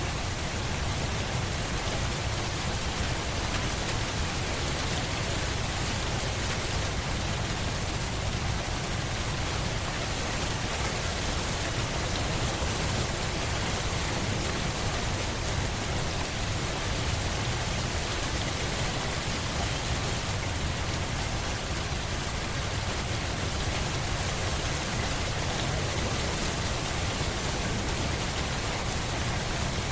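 Steady, even rain falling, a continuous hiss with a low rumble underneath and no distinct drops or thunder standing out.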